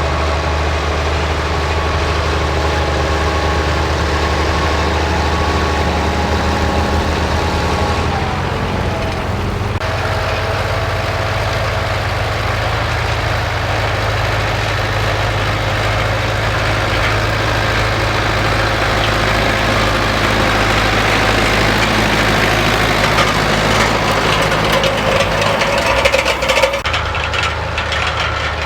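Vintage Ford tractor engine running steadily. Its pitch drops about eight seconds in, and the sound changes abruptly near the end.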